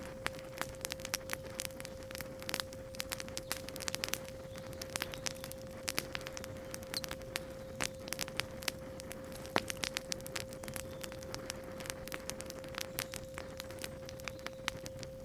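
Wood campfire crackling with many irregular sharp pops, over a steady pure 528 Hz sine tone.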